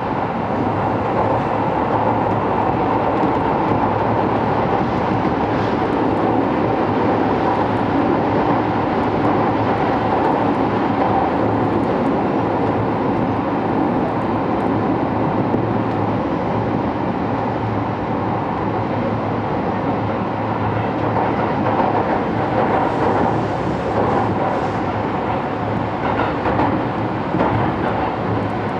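Electric passenger train running at speed, heard from inside the car: a steady, even rumble and hiss of wheels on rail that does not change.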